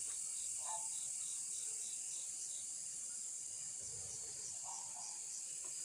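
Crickets and other night insects: a steady high-pitched buzz, with a fast, even chirping pulse over the first few seconds that then fades.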